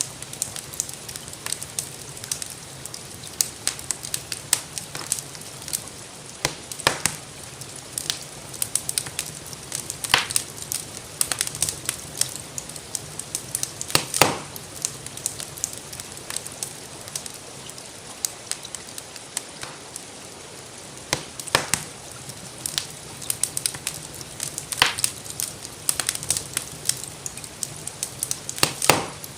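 Crackling wood fire in a fireplace: frequent sharp pops and snaps, a few much louder every few seconds, over a steady hiss of falling rain.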